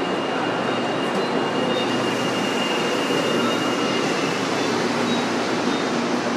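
Metro train running through the station: a steady rush of wheel and motor noise, with a thin high squeal held through the first few seconds.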